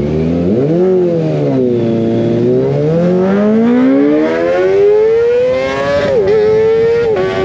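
Kawasaki ZX25R's inline four-cylinder engine through an Over Racing GP-RS full-system exhaust, heard while riding. The revs rise and fall quickly, then climb steadily for several seconds as it accelerates. About six seconds in they drop sharply and then hold steady.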